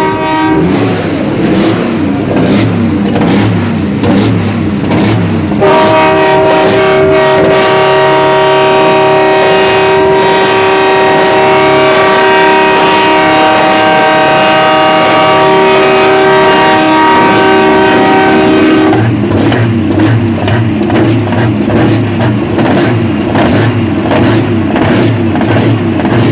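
Truck air horns sounding a long multi-tone chord for about thirteen seconds, from about six seconds in, with a brief blast at the start. A truck's diesel engine runs underneath before and after the horns.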